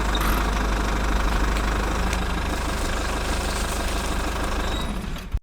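Engine idling steadily with a low rumble, cut off abruptly near the end.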